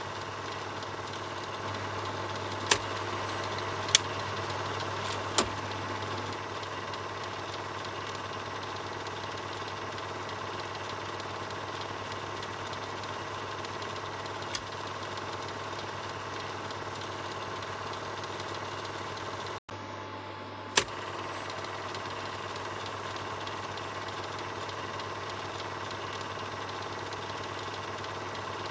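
Film projector running with a steady mechanical whir and a low hum, broken by a few sharp clicks about three, four and five seconds in and twice more later. The sound cuts out for a split second about twenty seconds in.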